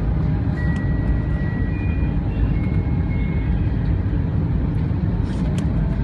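Steady engine and airflow noise of an Airbus A320 heard inside the passenger cabin from a rear window seat, a dense low rumble. A few faint, thin high tones come and go over it.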